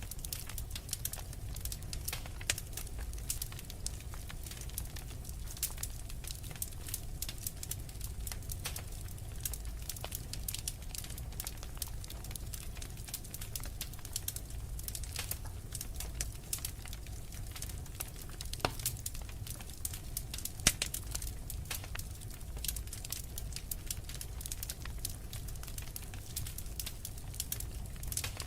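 Wood fire in a fireplace, logs burning with a steady low rumble and constant irregular crackling, plus a few sharper pops partway through.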